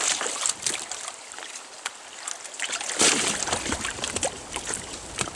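Water splashing and sloshing around a kayak during a tip-over stability test, with one burst at the start and a louder one about three seconds in.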